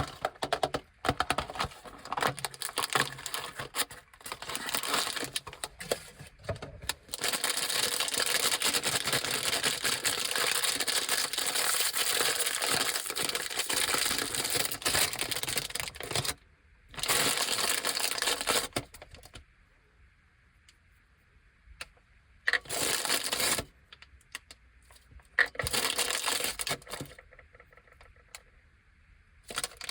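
Crinkly plastic snack packaging being handled and opened. It starts as scattered crackles and clicks, then a long unbroken stretch of crinkling rustle, then shorter bursts separated by quiet pauses.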